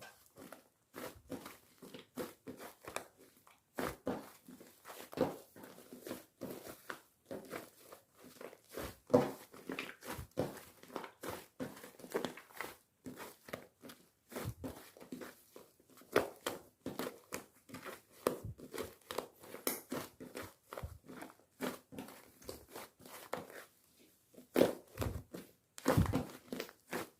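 Slime being mixed with shaving foam and kneaded by hand: a continuous run of irregular sticky squishes, small pops and crackles.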